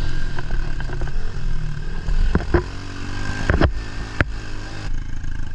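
A 110cc single-cylinder four-stroke pit bike engine revving up and down as the bike is ridden over a rough woods trail. Several sharp knocks and rattles from the bike come through over the bumps.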